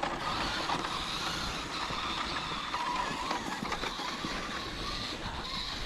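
Electric radio-controlled truck driving through snow: a faint motor and gear whine that wavers in pitch with the throttle, over a steady hiss.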